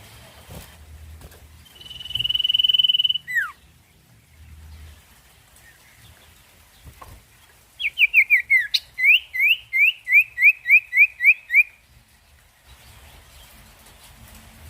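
Sirtu songbird singing. It gives one long, steady high whistle that ends in a quick downward slide, then a few seconds later a fast run of about a dozen short rising whistled notes, about three a second: the rapid 'ngetir' song.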